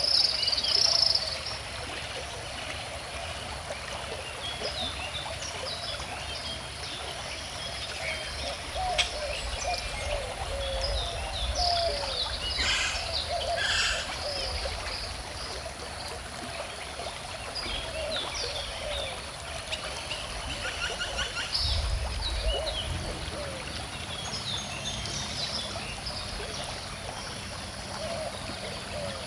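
A calm river flowing steadily, with several birds chirping and singing over the water; one bird call right at the start is the loudest.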